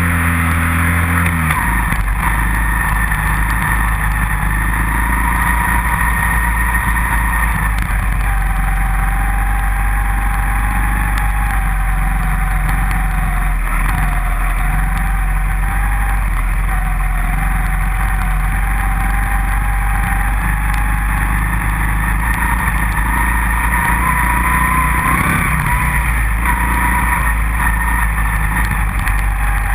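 Dirt bike engine running at fairly steady revs, its pitch wavering slightly, with a brief rise about 25 seconds in.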